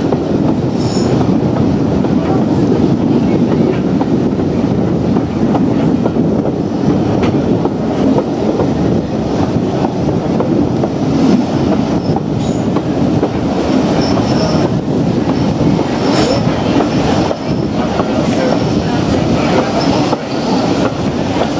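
Train running along the line at speed: a steady rumble and rattle of the wheels on the rails, with a faint squeal now and then.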